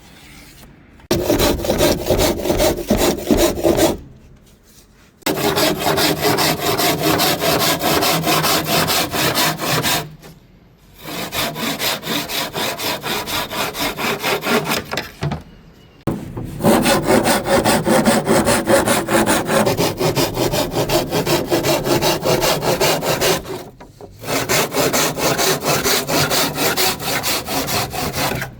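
Rapid back-and-forth scraping strokes on wood, in five bouts of several seconds with short pauses between them.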